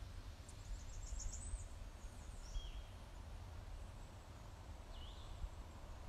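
Songbirds calling: a quick high trill about a second in, short whistled calls near the middle and one more call near the end, over a steady low rumble.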